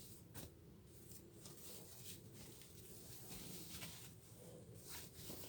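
Near silence: room tone with a few faint, brief clicks and rustles of handling.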